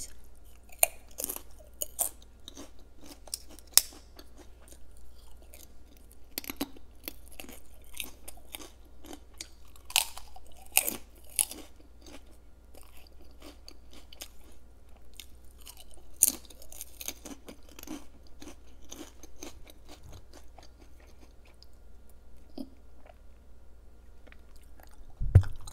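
Close-miked crunching and chewing of crisp, home-fried wide clear noodles: sharp bites and crackles, thickest in the first two-thirds, then settling into quieter chewing. A short low thump comes just before the end.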